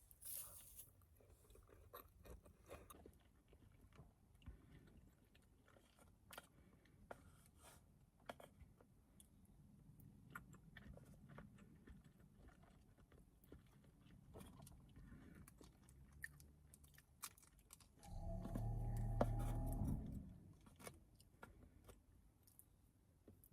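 Faint, close-up chewing of sushi, with small wet mouth clicks and bites scattered throughout. A louder low sound lasts about two seconds near the end.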